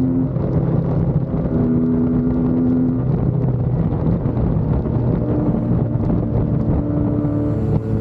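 Suzuki Hayabusa Gen3's inline-four engine running under way on the road, a steady low drone whose pitch shifts in steps, with wind buffeting the microphone.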